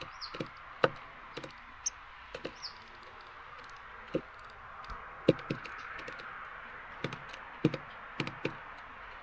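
Irregular sharp taps and knocks on a garden bird feeder, over a steady hiss of rain. A small bird gives two short, high, falling chirps in the first few seconds.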